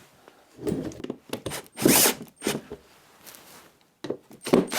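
A few short, separate knocks and scrapes of MDF pieces and tools being handled. The loudest comes about two seconds in, and a quick cluster follows near the end.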